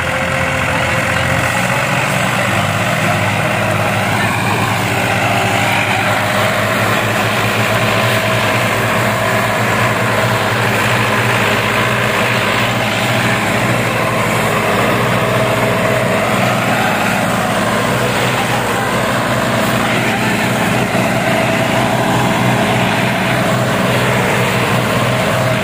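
Massey Ferguson 240 tractor's three-cylinder diesel engine running steadily under load while pulling a heavily loaded trolley.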